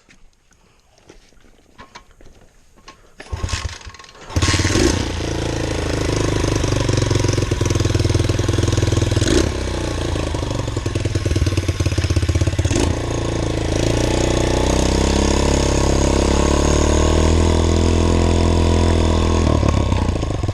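Small pit bike engine catching after a short burst of cranking about four seconds in, then running loud with its pitch rising and falling as it is revved and ridden.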